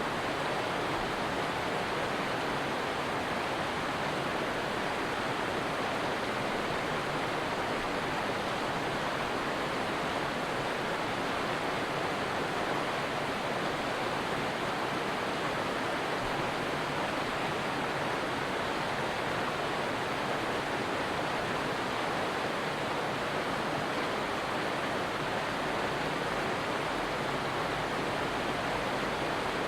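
Stream water flowing, a steady, even rushing that does not change.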